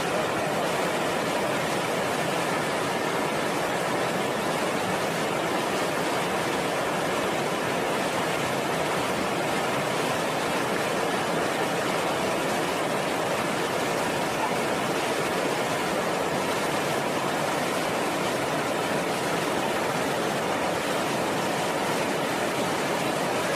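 Rushing water of a high, fast-flowing river, a steady, unbroken roar of noise.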